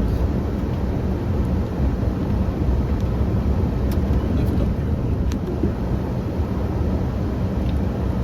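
Engine of a snow-clearing vehicle running steadily, a low continuous drone.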